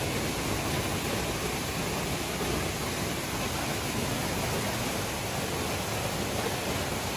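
Steady rushing of a waterfall: falling water making an even, unbroken noise.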